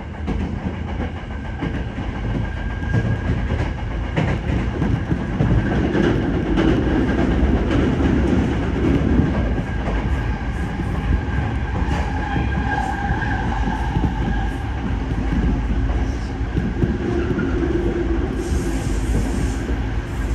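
Tokyo Metro Tozai Line train running along elevated track, heard from inside the car: a steady rumble of wheels on rail with occasional clacks over rail joints and a faint whine that swells and fades.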